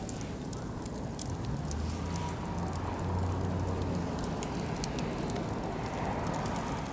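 Oak and beech logs burning in a barbecue-grill fire, crackling with frequent sharp pops and snaps over a steady hiss. A low rumble swells between about a second and a half and four seconds in.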